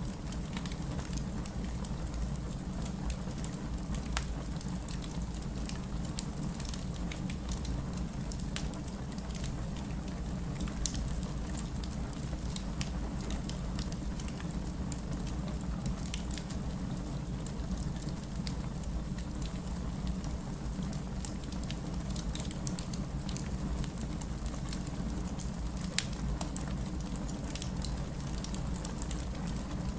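Wood fire burning in a fireplace: a steady low rumble of flames with constant fine crackling and occasional louder pops of the burning logs.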